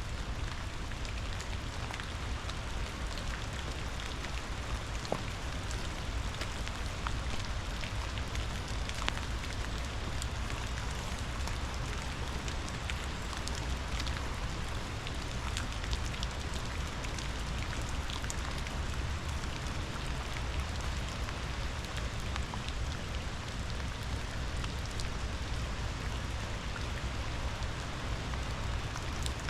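Steady rain falling, a constant hiss with scattered individual drops tapping, over a continuous low rumble of running water.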